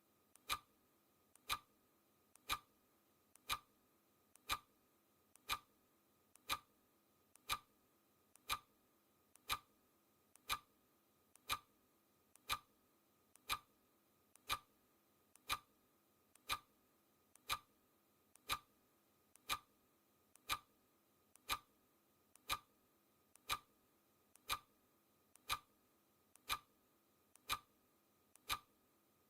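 Clock ticking sound effect: one sharp tick every second, steady and even, each with a fainter click just before it.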